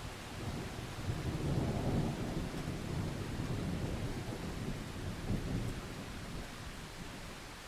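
Rolling thunder over steady rain. The rumble builds about a second in, is loudest around two seconds in, then slowly fades.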